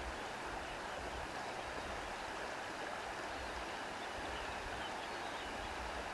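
A stream running in a steady, even rush.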